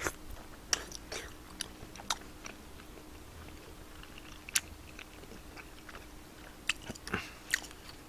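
Close-up eating of tteokbokki: quiet chewing broken by sharp, irregular mouth smacks and clicks, about eight over several seconds.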